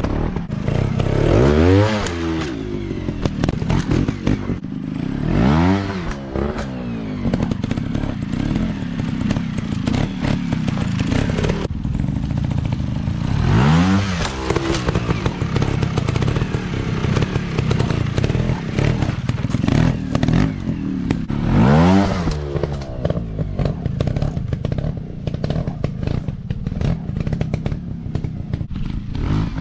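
Dirt bike engines running, revving up and falling back several times, with clattering throughout.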